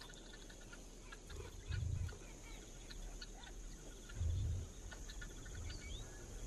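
Wild birds chirping and trilling over a steady, high insect drone. Two low thuds sound, about two seconds in and just past four seconds.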